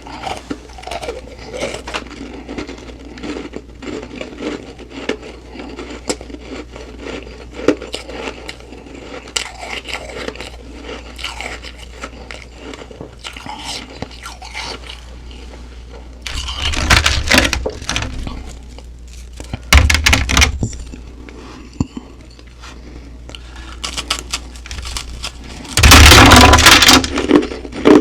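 A person chewing humidifier frost (soft, frosty ice) with a steady fine crackle, and three loud crunching bites, about halfway through, a few seconds later, and near the end.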